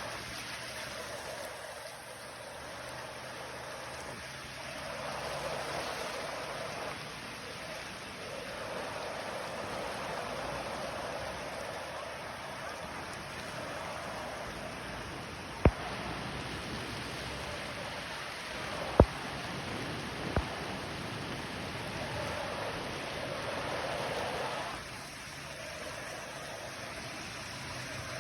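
Floodwater rushing steadily, swelling and easing in waves. Three sharp clicks cut through it a little past halfway, the loudest things heard.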